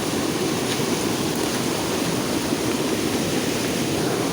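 Steady rush of water pouring out of a drainage pipe in the monsoon flow, an even, unbroken noise.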